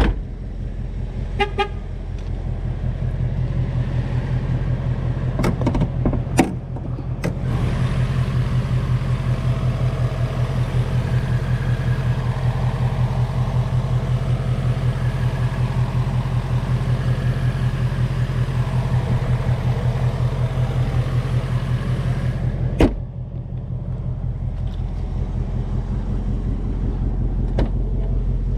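A 2019 Ford Mustang GT's 5.0 L Coyote V8 idling with a steady, even low pulse. From about seven seconds in, a brighter whirring hiss from the engine bay joins it. A few sharp clicks come just before, and a single sharp knock comes at about twenty-three seconds, after which the hiss drops away and the plain idle goes on.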